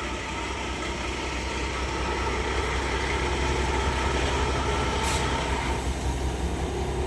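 Heavy truck engine running with a steady low drone that grows a little louder partway through, with a short hiss about five seconds in.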